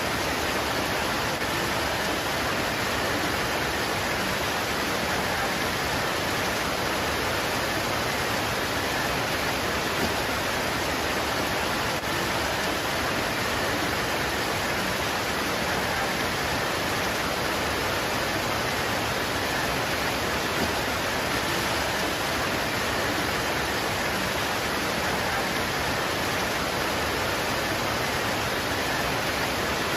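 Rain pouring steadily on leaves: a dense, even hiss with no single drops standing out.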